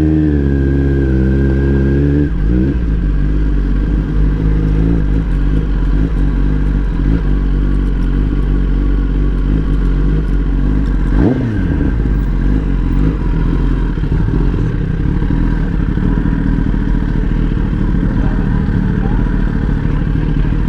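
Motorcycle engines running steadily, with a wavering pitch for the first couple of seconds and a brief change in engine pitch about eleven seconds in.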